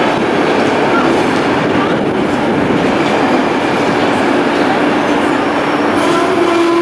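A train running close by along the station tracks: a loud, steady rumble of wheels on the rails with a steady hum underneath. A higher whine of several tones joins near the end.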